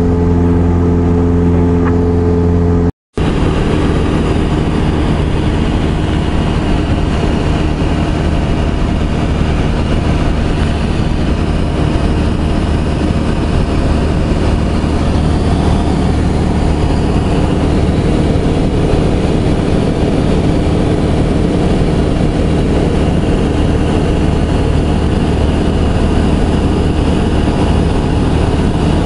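Cessna 172SP's four-cylinder Lycoming engine and propeller droning steadily in flight, heard from inside the cabin with a constant rush of airflow. The sound breaks off briefly about three seconds in, then carries on unchanged.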